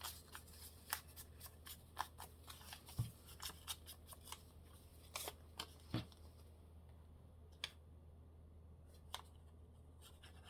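Paper and card being handled and pressed into place: faint rustles, taps and clicks, busy for about the first half, then only occasional taps, over a low steady hum.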